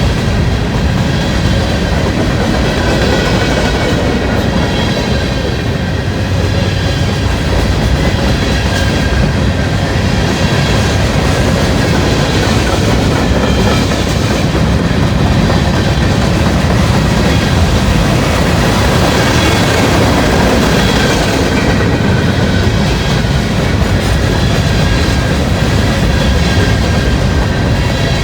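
Freight cars rolling past at close range: a steady rumble of steel wheels on the rails with wheel clatter, and faint high squealing tones from the wheels running through.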